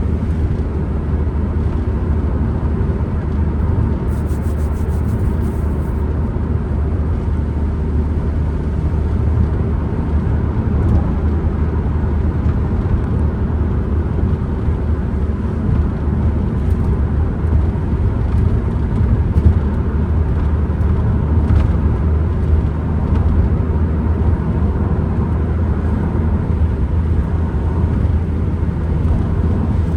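Inside a Ford Transit Connect van on the move: a steady low drone of engine and road rumble, with wind noise over it.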